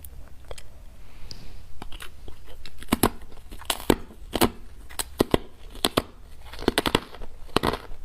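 Ice with matcha being bitten and chewed close up: a few light cracks at first, then from about three seconds in a run of sharp, loud crunches as the ice breaks between the teeth.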